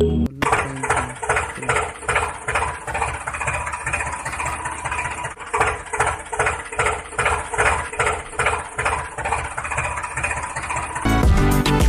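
Tractor engine idling with a steady chugging beat, about two to three pulses a second. Background music cuts back in near the end.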